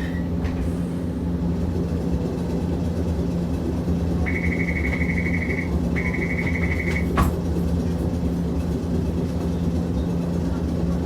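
Hiroshima Electric Railway 650-series streetcar running, heard from inside the car as a steady low hum of motors and wheels. Two short buzzer tones sound a little after four and six seconds in, followed by a sharp click.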